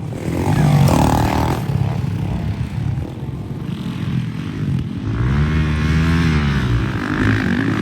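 Dirt bike engine running and revving; about five seconds in, its pitch rises and then falls again.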